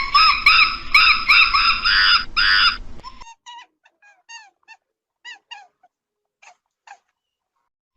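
A rapid series of short, high-pitched animal calls, about three a second over a background hiss, breaking off about three seconds in into a few sparse, separate chirps.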